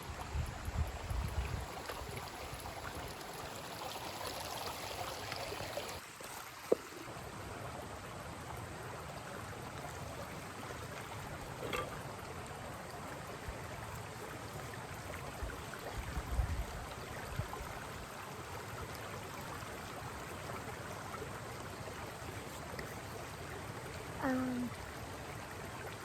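Mountain stream flowing over rocks: a steady rush of water. There are a few low rumbles near the start and in the middle, and one sharp click about 7 seconds in.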